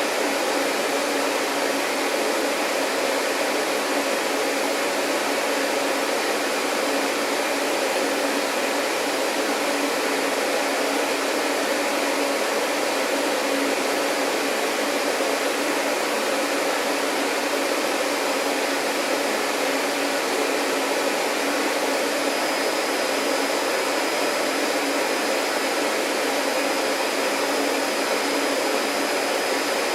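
Vacuum cleaner running steadily, a constant rushing hum; a thin high whine joins about two-thirds of the way through.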